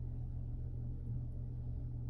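Steady low background hum with no other distinct sound.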